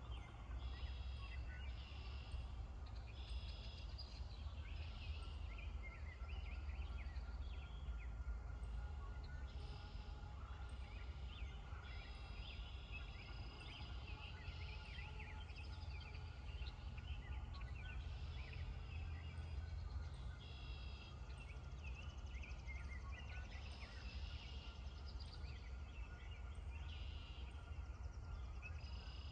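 Outdoor pond ambience: many small birds chirping and calling again and again over a steady low rumble.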